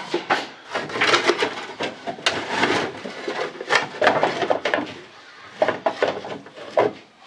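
Clatter of stored items being moved and rummaged through: repeated sharp knocks of wood and hard objects against each other, with scraping and shuffling in between, quieter near the end.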